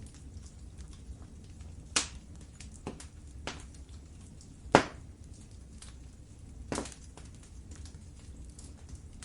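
Wood fire in a fireplace crackling over a low, steady rumble, with many small ticks. Three loud pops come about two, five and seven seconds in, the one near the middle the loudest.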